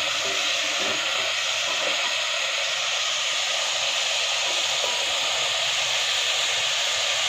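Chicken and masala sizzling steadily in hot oil as they are stirred with a wooden spatula: the bhuna stage, the masala being fried down in its oil.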